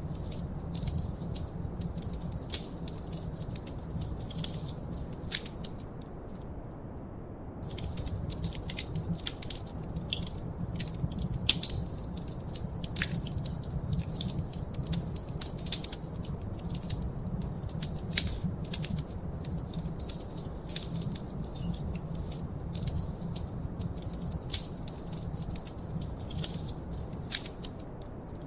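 Wood fire in a fireplace crackling, with frequent sharp irregular pops over a low steady rumble. The crackling drops out for about a second around seven seconds in.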